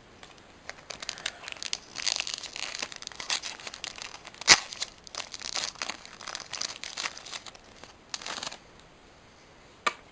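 Foil Pokémon booster pack wrapper being torn open and crinkled, in an irregular run of crackles with one sharp snap about halfway through and a lone click near the end.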